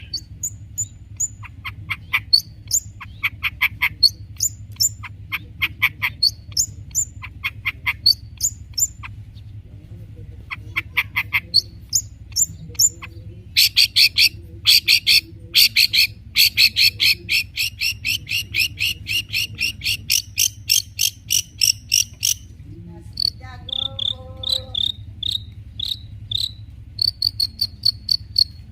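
Long-tailed shrike (cendet) singing in full voice: fast series of sharp, high chirps and rapid repeated trill notes, a dense run of quick notes in the middle, then a few lower whistled notes near the end.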